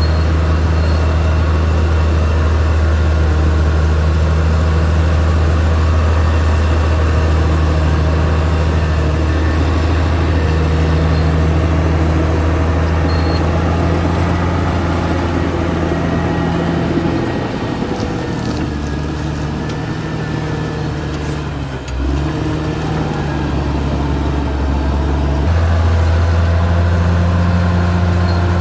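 Caterpillar D6R XL bulldozer's diesel engine running steadily under work. Its drone drops lower and quieter about two-thirds of the way through, with a brief dip, then picks back up near the end.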